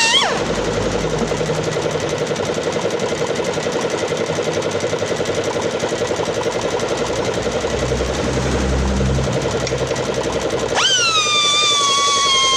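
Pneumatic air grinder: its high free-running whine drops sharply at the start and gives way to a rough, rapidly pulsing grinding noise with a low rumble. About 11 seconds in, the whine rises sharply back to full speed.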